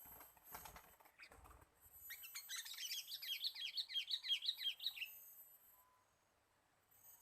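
A bird's rapid chattering trill of short down-slurred notes, starting about two seconds in and lasting about three seconds, over a steady high hiss, after a couple of soft knocks.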